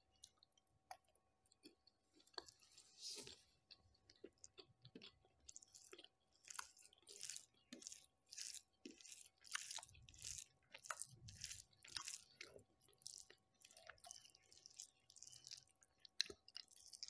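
A person chewing mutton curry and rice close to the microphone: faint moist chewing and smacking, in short clicks that come about twice a second through the second half.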